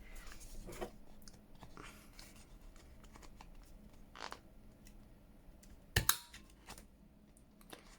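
Quiet rustling and handling of paper, with a few small clicks and one sharp snap about six seconds in, from a 10 mm corner-rounding punch cutting through the paper.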